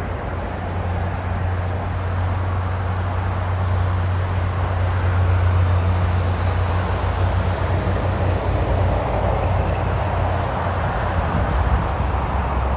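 Jet airliner engines making a steady roar over a deep rumble, swelling in the middle with a faint high whine.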